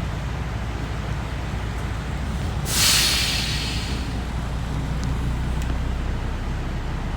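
City bus driving with a steady low engine and road rumble, and a sudden sharp hiss of released compressed air from its air brake system about three seconds in, fading over about a second.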